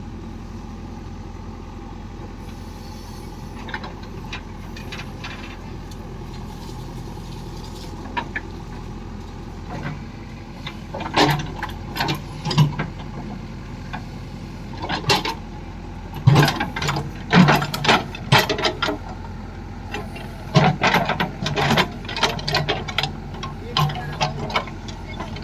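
An engine running steadily, with a series of sharp clatters and knocks starting about ten seconds in and coming thick and fast after that.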